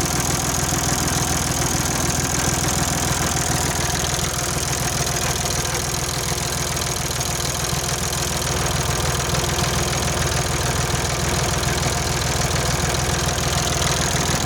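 Ursus C-360 3P tractor's four-cylinder diesel engine idling steadily, with a fast even diesel knock.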